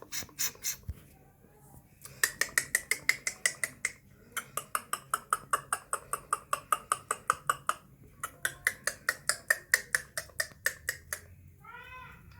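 Green ringneck parakeet calling in fast runs of sharp, repeated screeches, about eight a second, three runs of two to three seconds each. A single arched call follows near the end.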